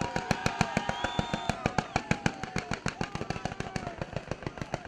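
Fireworks display by Pirotecnica La Rosa: a rapid volley of ground-fired comets and mines going off in quick succession. The sharp reports come about eight to ten a second, without a break.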